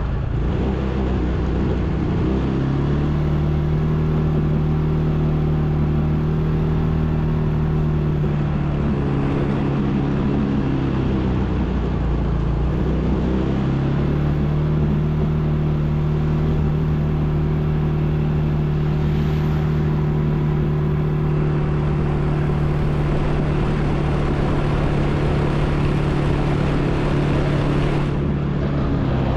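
ATV engine running while riding, over a steady rush of track and wind noise. The revs climb about two seconds in and hold, ease off for a couple of seconds around the middle, then climb again and hold steady.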